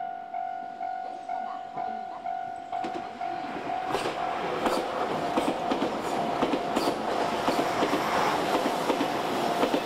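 A train passing, its wheels clacking over rail joints at an even beat from about four seconds in, while a level-crossing warning bell rings about twice a second.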